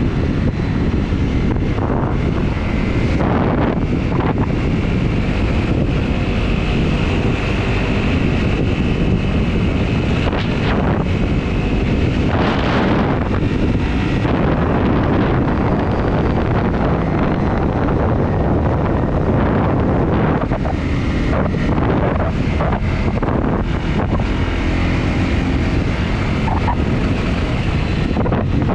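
Heavy wind noise on the microphone of a moving Honda CRF250 motorcycle, with its single-cylinder four-stroke engine running steadily underneath.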